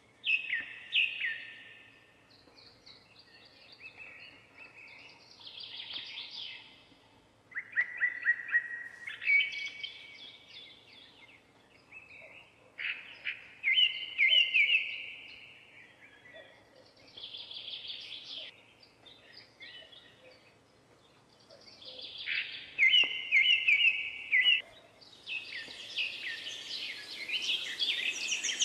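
Birds singing: short phrases of quick, bright, chirping notes, repeated every few seconds.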